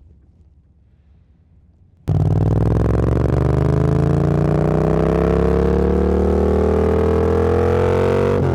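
Motorcycle engine, faint for the first two seconds, then suddenly loud as it pulls under acceleration, its pitch rising steadily for about six seconds before dropping with an upshift at the very end.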